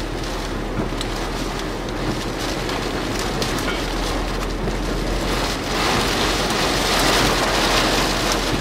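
Rain and wind beating on a car, heard from inside the cabin: a steady rushing hiss with scattered taps of drops, growing louder about six seconds in.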